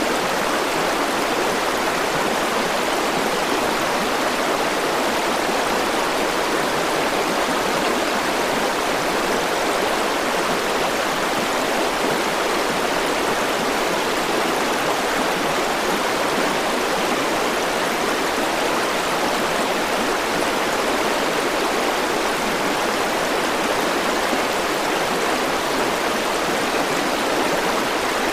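A river rushing steadily over rocks, with a constant, even flow that does not change.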